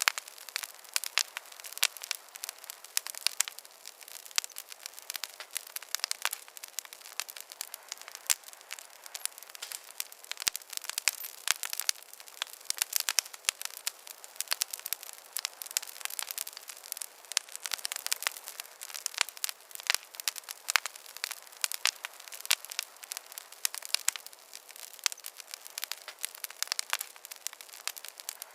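Campfire burning with a steady stream of sharp, irregular crackles and pops over a faint hiss.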